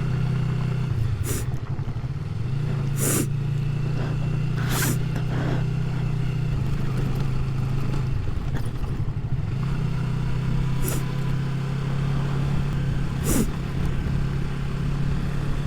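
Motorcycle engine running steadily over a rough, stony dirt road, its note dropping briefly twice as the throttle eases. Several sharp knocks are heard along the way.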